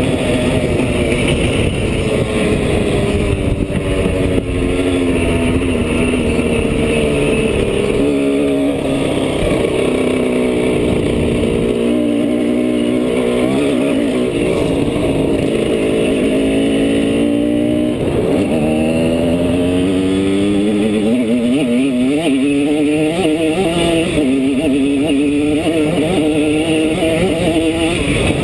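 Simson S51 Enduro's single-cylinder two-stroke engine under way, its pitch rising and falling again and again as the rider opens and closes the throttle and changes gear, over a heavy low wind rumble on the helmet microphone.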